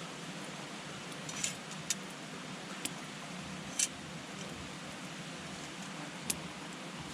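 Wood campfire burning with a steady low hiss, broken by about five sharp crackles and pops, the loudest about four seconds in.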